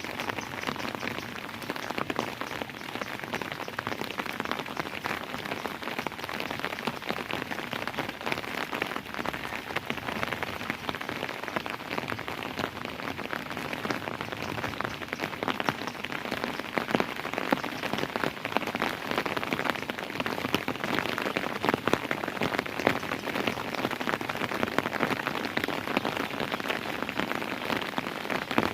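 Steady rainfall: a dense patter of raindrops striking a surface, even and unbroken.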